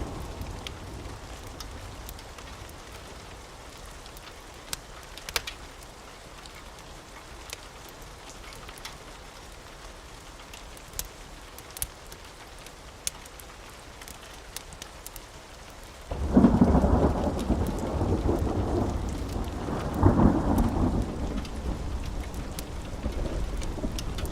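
Steady rainfall with scattered sharp clicks and taps. About two-thirds of the way in a loud, deep thunder rumble breaks in suddenly, swells again a few seconds later, and is still rolling at the end.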